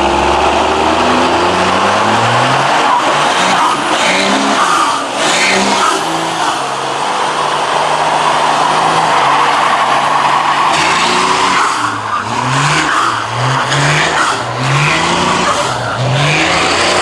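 Muscle car doing a burnout: its tyres squeal against the pavement while the engine is revved hard, and the engine's pitch climbs and drops over and over in the last few seconds.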